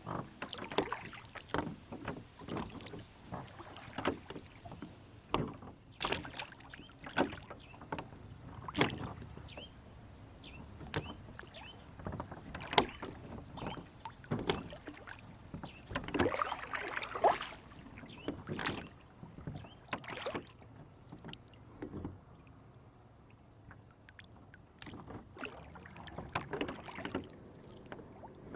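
Water splashing and lapping around a small rowboat on a lake, with irregular light knocks and sloshes against the hull.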